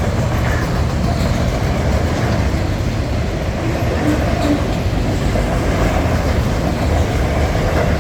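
Norfolk Southern freight train rolling past close by: a steady, loud rumble and clatter of wheels on rail, with a couple of brief faint squeals about four seconds in.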